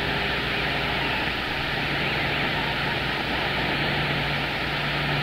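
CB radio receiver on channel 6 (27.025 MHz) hissing with steady static while nobody transmits, with a low steady hum under the noise.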